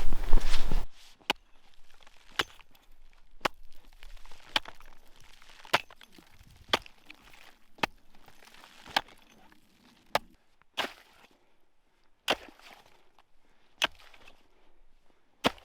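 A loud rush of noise in the first second, then a series of sharp knocks about one a second, each short and clipped.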